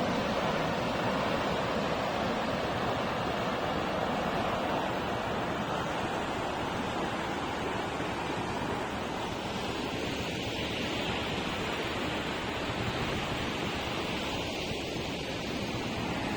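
Wind rushing over the microphone during a motorcycle ride: a steady, even rush of noise.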